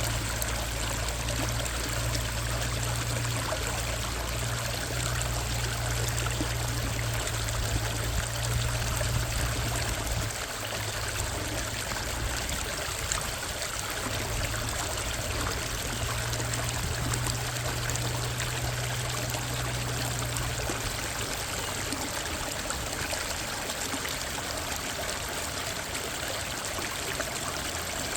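Steady rushing and splashing of Minnehaha Creek's water, with a low rumble underneath that fades out about three-quarters of the way through.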